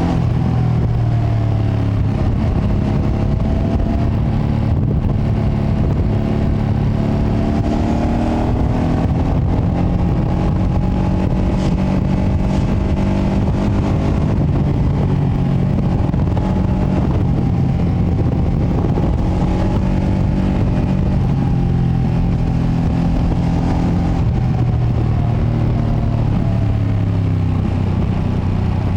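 Ducati Panigale V2S V-twin engine on its stock exhaust, heard while riding, its pitch rising and falling as the rider works the throttle through the gears. Heavy wind rumble on the microphone runs under it.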